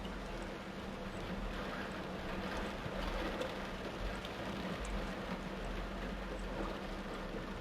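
Torrential rain and floodwater rushing, a steady noise under a constant low hum.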